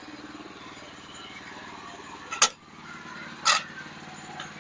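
Sawmill's engine running steadily, with two sharp knocks, one about two and a half seconds in and another a second later.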